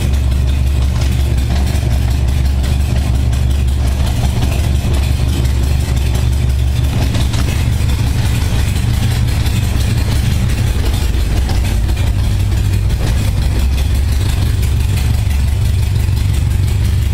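1978 Honda Gold Wing's flat-four engine idling low and even at about 600 RPM, with the choke about two-thirds on and its carburettors freshly synchronized. The idle note shifts slightly a couple of times.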